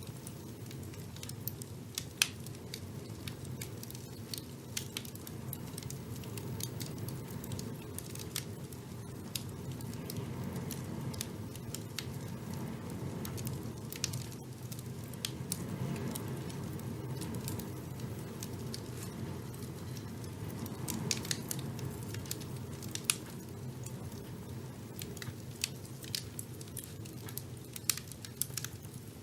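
Wood fire burning in a fireplace: irregular crackles and sharp pops over a steady low rush of flames, with a louder pop about two seconds in.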